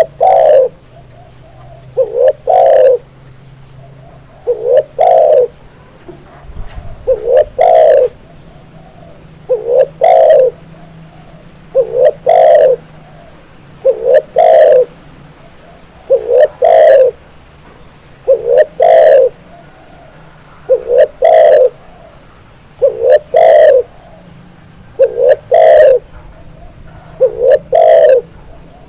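Spotted dove (tekukur) cooing: a short phrase of a quick note followed by a longer coo, repeated steadily about every two seconds.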